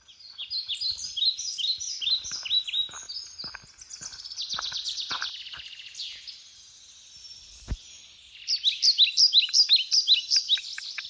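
Songbirds singing in quick runs of short, high, down-slurred chirps, busiest near the end, with a few faint ticks and one sharper knock about two-thirds of the way through.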